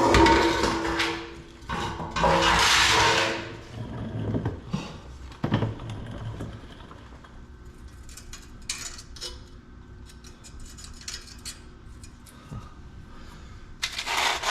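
Metal exhaust pipe being handled during removal: two loud scrapes with some metallic ringing at the start, a knock, then light clicks and clanks, and another loud scrape near the end.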